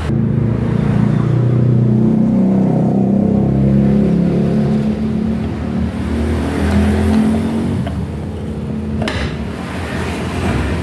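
A steady low motor drone that wavers a little in pitch, with a short sharp knock about nine seconds in.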